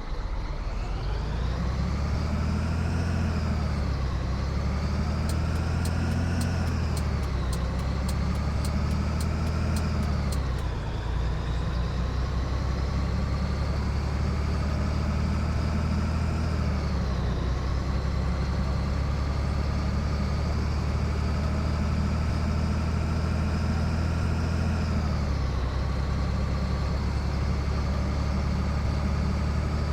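Scania 113 truck's 11-litre straight-six turbo diesel pulling away and accelerating, the engine note rising through each gear and dropping sharply at about five upshifts, then settling into a steady cruise. A run of faint quick ticks sounds for a few seconds about a third of the way in.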